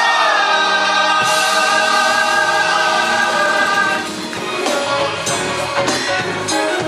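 Gospel choir singing with accompaniment, holding a long chord for about four seconds, then moving into a busier rhythmic passage with sharp percussive hits.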